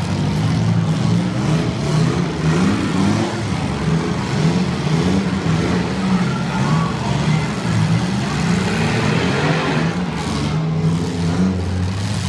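Several demolition derby cars' engines running and revving at once, their pitches wavering up and down.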